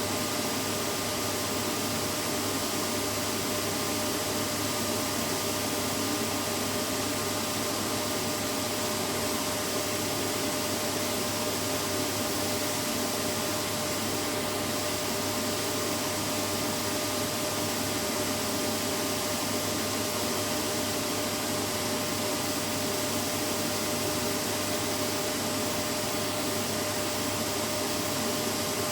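Vacuum cleaner running steadily, an even, unchanging motor hum and rush of air with a constant whine.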